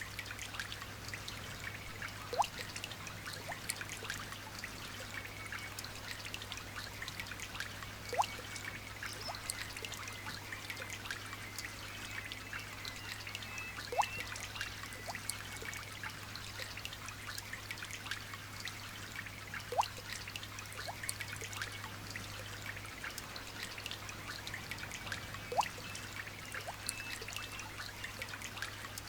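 Light rain falling, a steady patter of fine drops with water trickling. A single louder drip plops about every six seconds, five times in all.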